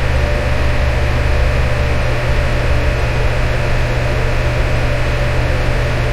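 Electric fan running steadily, a constant whooshing noise of air with a deep motor hum underneath and a faint steady tone.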